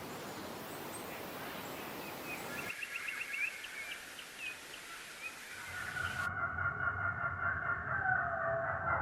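Birds calling over a steady outdoor hiss: a quick run of short high chirps about two to three seconds in, then longer calls with several pitches from about halfway, one sliding downward near the end.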